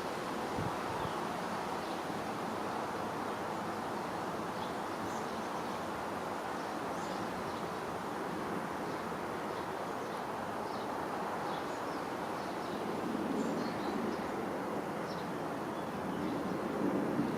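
Steady outdoor background noise with faint, short, high bird chirps scattered throughout, growing a little louder in the lower range in the last few seconds.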